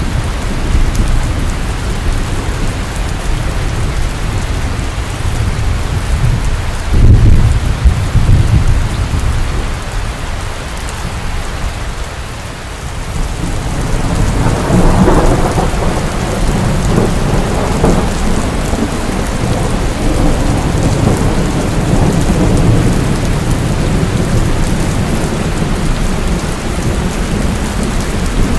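Steady heavy rain with rolling thunder: a loud low rumble about seven seconds in, then another rumble that swells about halfway through and slowly fades.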